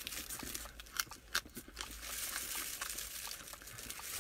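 A person chewing a big mouthful of a sesame-seed bun burger, with scattered small clicks and light crinkling of the plastic glove and wrapper around it.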